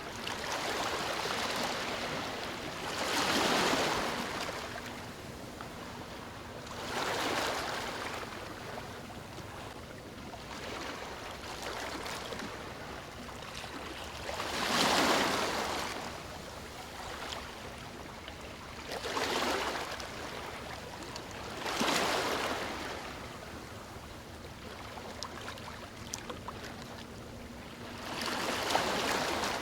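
Sea waves breaking and washing in, one after another. Six surges each swell and fade over a second or two above a steady hiss of surf.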